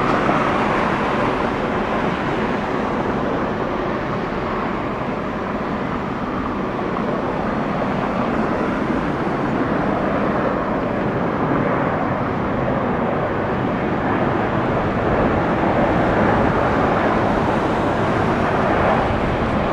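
Jet noise from an arriving Airbus A350-1000's Rolls-Royce Trent XWB engines: a steady rushing noise that swells slightly in the last few seconds.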